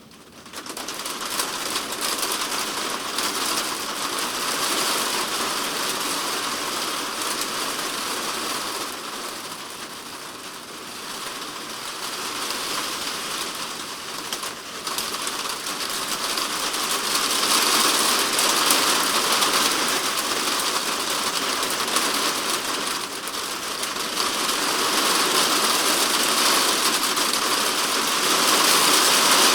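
Heavy typhoon rain hitting a polycarbonate shed roof as a dense, hissing patter that sets in suddenly about half a second in. It eases somewhat for a few seconds near the middle, then grows heavier again towards the end.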